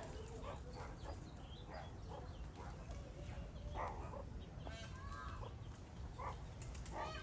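Meerkats giving a string of short chirping, clucking calls, a few longer pitched ones about five seconds in and near the end, over a steady low rumble.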